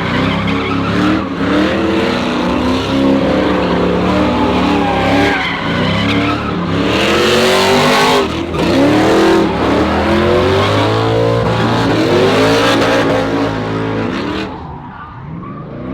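Truck doing donuts: the engine revs up and down repeatedly while the tires spin and squeal, easing off near the end.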